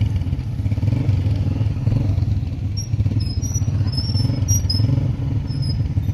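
Motorcycle engine running steadily, a low pulsing drone. Short high chirps join in from about halfway through.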